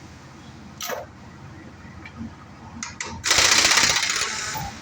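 A power tool runs in one burst of about a second and a half near the end, with a fast, even rattle. A few light clanks of tools come before it.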